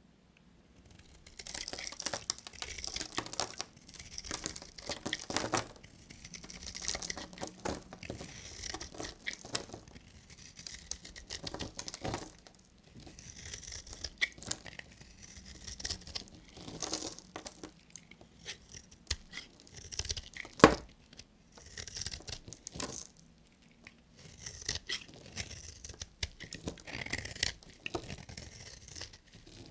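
Knife cutting bars of dry soap: a run of repeated crunchy, scraping strokes, with one sharp click about twenty seconds in.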